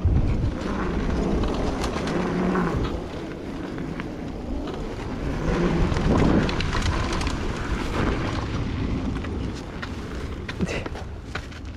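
Pit bikes coasting downhill with engines off: wind rumbling on the microphone and tyres rolling over dirt, with scattered knocks and rattles from bumps, most of them near the end.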